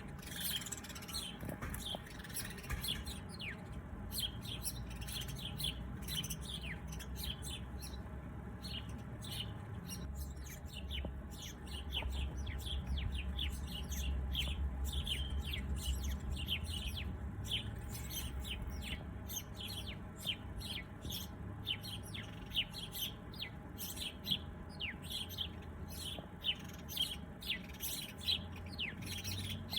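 Small birds chirping: many short, quick chirps that drop in pitch, sparse at first and coming thick and fast from about halfway on. A low rumble swells under them in the middle.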